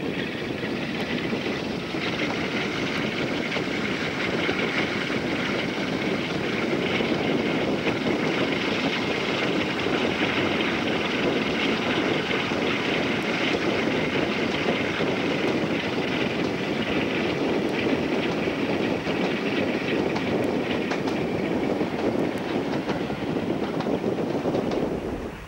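Passenger train running at speed, heard from an open carriage window: the steady rumble and clatter of wheels on the rails.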